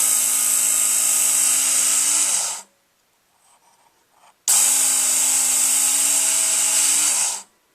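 Work Sharp electric belt knife sharpener running loud in two bursts of about three seconds each: a motor hum under the hiss of the spinning abrasive belt. Each burst winds down in pitch as the machine is switched off.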